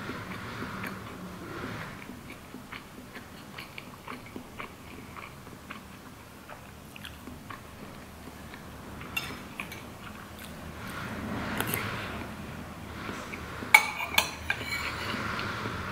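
Close-up chewing of a mouthful of paella rice and chicken, with many small wet mouth clicks. Just before the end a few sharp clinks of a metal spoon against a foil tray.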